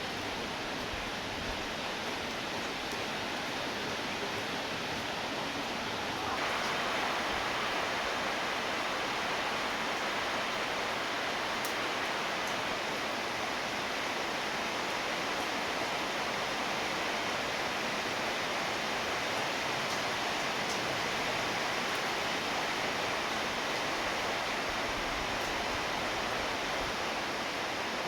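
Rain falling steadily, an even hiss with no pattern, which gets louder about six seconds in and stays at that level.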